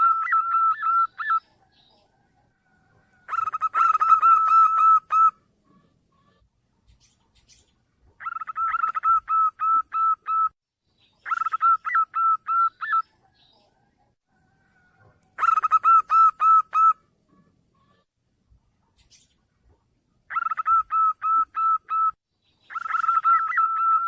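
Zebra dove cooing: repeated phrases of quick, clipped notes on much the same pitch, each phrase lasting about two seconds, with short pauses between. This is the perkutut call used as a lure to draw other doves.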